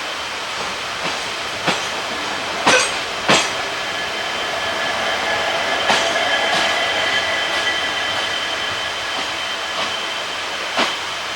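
ICF passenger coaches running along the track: a steady rumble broken by irregular sharp knocks as the wheels cross rail joints, with a thin high wheel squeal joining in about halfway through.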